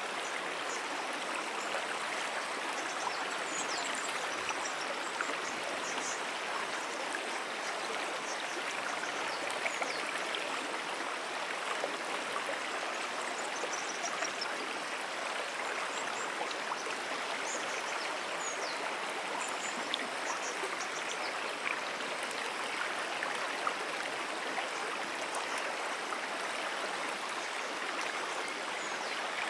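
Moonan Brook, a shallow perennial stream, flowing and babbling steadily, with faint short high chirps scattered over it.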